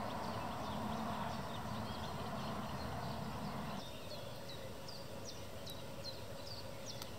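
Small birds chirping over a quiet lake, short high chirps repeating about twice a second. A low steady hum runs under them and cuts off suddenly about four seconds in.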